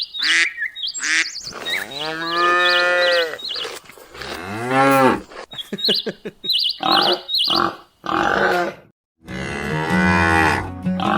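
Cattle mooing: a series of long, low moos one after another, with a short silence about eight seconds in.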